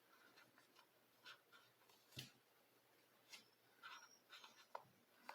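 Near silence with a few faint, short clicks and rustles, the clearest about two seconds in, from hands handling a crocheted piece with pins in it.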